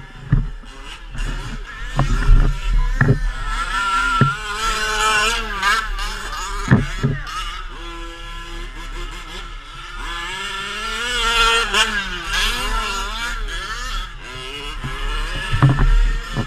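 Two-wheel-drive truck engine revving up and down repeatedly, with several sharp knocks and thumps in between.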